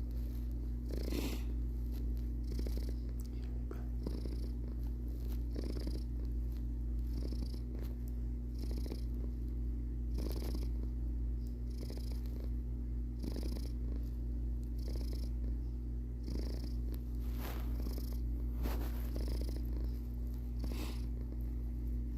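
Domestic cat purring steadily and close up, with a soft breathy swell about every one and a half seconds as it breathes in and out.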